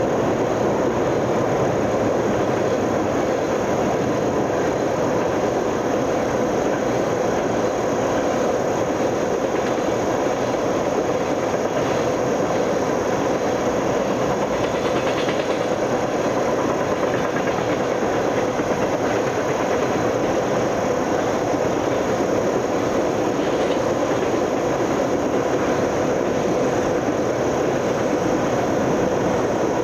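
Railroad cars of a passing train rolling by, a steady, unbroken noise of wheels on rail with no horn or distinct clanks.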